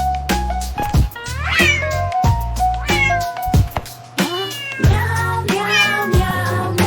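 Several cat meows, each rising and falling in pitch, over a children's rhyme backing track with a steady drum beat and bass.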